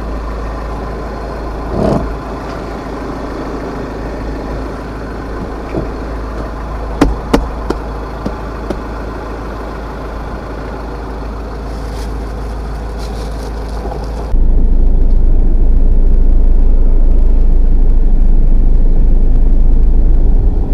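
Dump truck's engine running steadily, heard from the cab, with a few sharp clicks about seven seconds in. About fourteen seconds in, a much louder low rumble suddenly takes over and stays.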